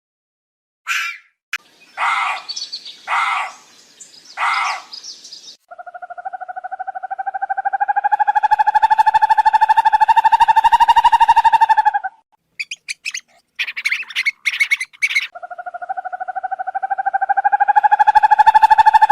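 A few short bird calls, then a long insect buzz that rises slightly in pitch for about six seconds. More short chirps follow, and the buzzing starts again near the end.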